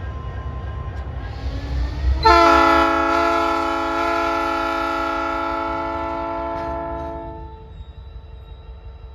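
Train horn sounding one long chord-like blast. It starts sharply about two seconds in, holds for about five seconds and fades, over the steady low rumble of a passing train.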